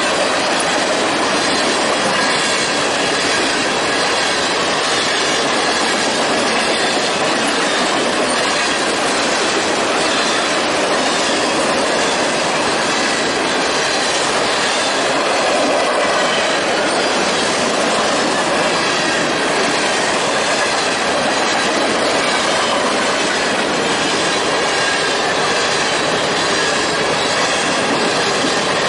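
Norfolk Southern freight train's cars rolling past at steady speed: a continuous loud rumble and rattle of steel wheels on the rail, with some wheel squeal.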